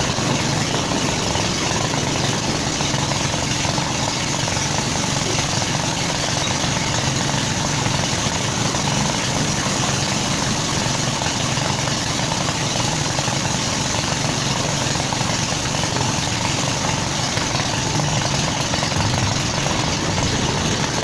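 An engine running steadily: a continuous drone with a hiss over it and no change in speed.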